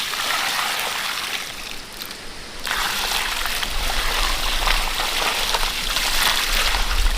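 Water running and splashing, in two spells with a short break about two seconds in.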